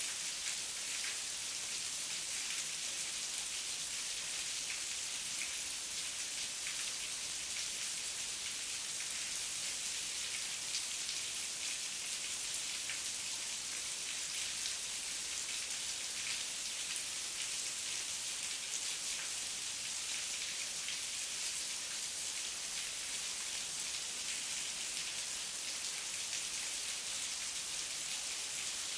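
Steady heavy rain with many fine drop ticks, a constant hiss strongest in the highs.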